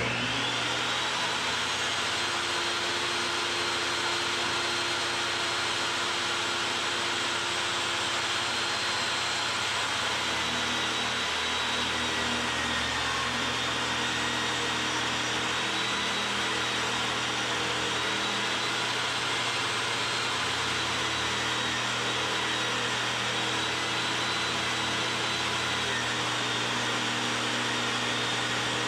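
Table saw motor running steadily with a constant whine while cutting wood.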